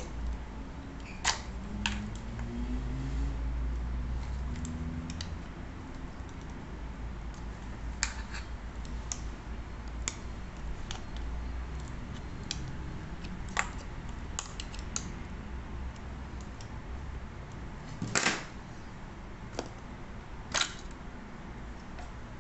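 Scattered sharp clicks and taps from handling the metal detector's plastic parts and small tools, about a dozen at uneven intervals with a quick cluster in the middle and the loudest, a double click, about three-quarters through. A low steady hum runs underneath.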